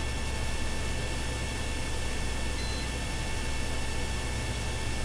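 Steady hiss and low hum of a police radio audio feed in the gap between transmissions.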